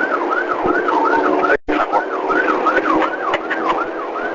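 Police car siren in a fast rising-and-falling yelp, about two to three sweeps a second, cutting out briefly about one and a half seconds in.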